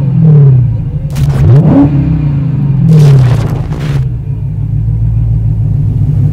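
Car engine sound effect revving, its pitch falling and climbing several times over a steady low drone, with two whooshes about one and three seconds in.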